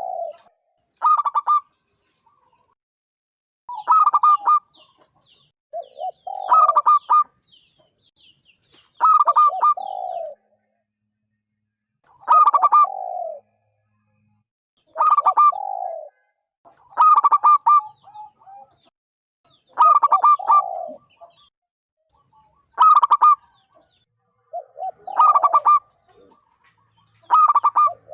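Zebra dove (perkutut) cooing over and over: each call is a quick stutter of short high notes ending in a lower rolling coo, one call every two to three seconds.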